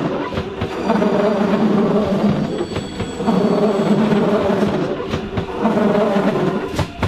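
A train rolling slowly through the station: a heavy rumble that swells and dips about every two and a half seconds, with sharp wheel clicks over rail joints and points.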